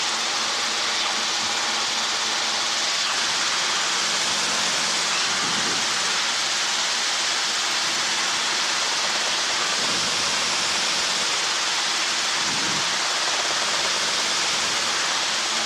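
Steady helicopter cabin noise in flight: an even hiss with faint steady low tones from the engine and rotors underneath.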